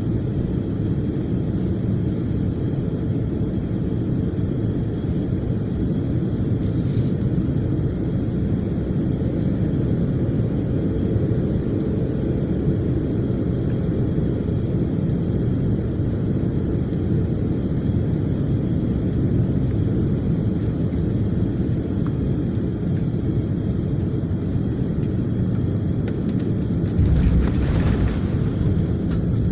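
Airliner on its landing approach, heard from inside the cabin: a steady low rumble of engines and rushing air. About 27 s in it turns louder and rougher for a couple of seconds.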